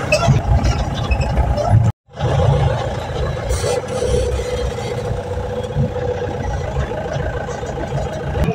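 Mahindra Bolero's diesel engine running, heard from inside the cabin while driving, with a steady low rumble. The sound cuts out abruptly for a moment about two seconds in.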